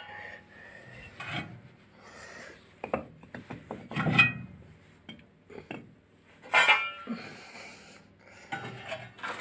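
Scraping and clunks of a metal part being set back in place inside a steel stove-fireplace firebox, with a couple of louder clanks that ring briefly, about four and six and a half seconds in.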